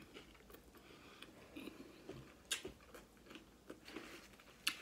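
A person chewing a mouthful of crunchy Doritos hard-shell taco, with scattered crunches and two sharper crackles, about two and a half seconds in and near the end.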